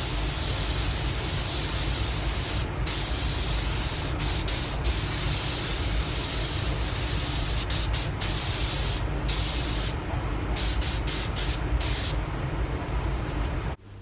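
Fade-out (blending) thinner hissing steadily out of a spray nozzle onto fresh clear coat at the edge of a bumper repair, melting the clear-coat edge into the old paint. The hiss drops away briefly several times between passes and cuts off suddenly near the end.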